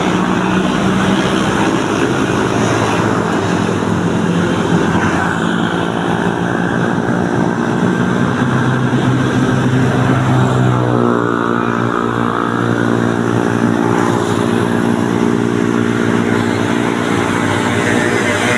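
Road traffic on a rain-wet street: motorcycle and car engines running steadily, with an engine note shifting in pitch about two-thirds of the way through.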